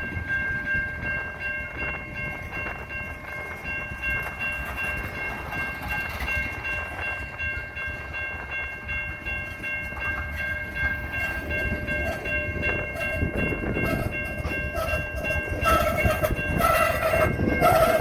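Strong wind rumbling steadily with several high whistling tones, as wind whistles through a gap, growing louder and shifting in pitch near the end.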